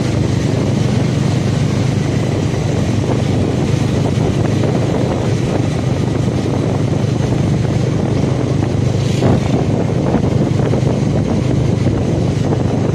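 Motorcycle engine running at a steady speed while riding, with wind noise on the microphone.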